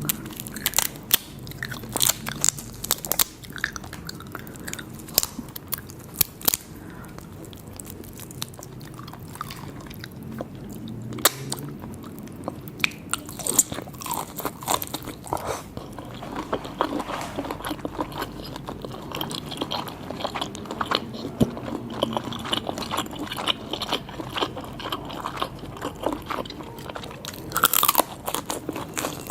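Close-miked eating sounds of a person biting and chewing seafood, with many sharp, irregular crunchy clicks.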